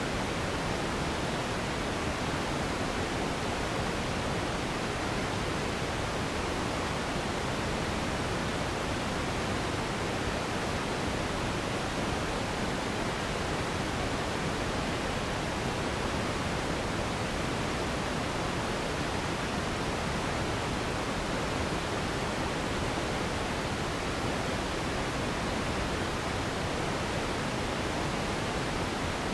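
Steady, unchanging pink noise: an even hiss across all pitches, fuller and deeper than white noise.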